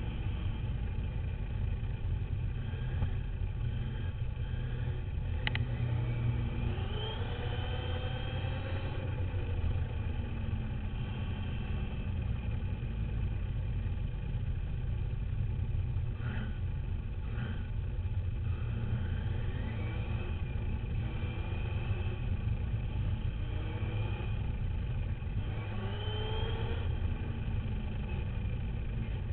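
Duratrax RC dirt bike running, heard from a camera mounted on it: a steady rumble of vibration and wind on the camera, with the motor's whine rising in pitch several times as it accelerates. A few short sharp knocks come through.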